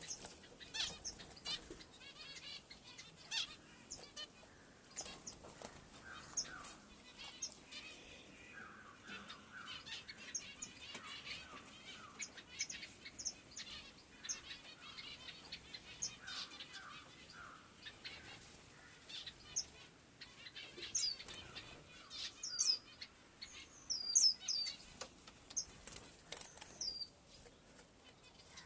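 A group of small pet birds chirping and chattering: many short, sharp high chirps throughout, with bouts of quick repeated lower notes and, near the end, a few clear curving whistles.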